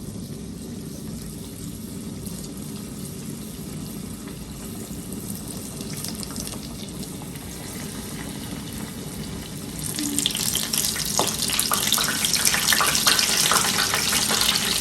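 Coated chicken lollipop going into hot oil: a deep-frying sizzle with dense crackling starts suddenly about ten seconds in, over a low steady hum before it.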